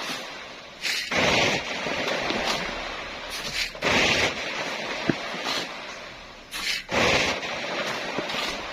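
Shovels scraping into loose fine sand and throwing it up into a dump truck's bed, a loud rasping scoop about every three seconds with smaller scrapes in between.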